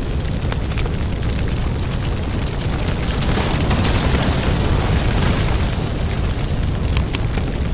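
Wood fire burning in a fireplace: a steady low roar of flames with frequent sharp crackles and pops, swelling a little around the middle.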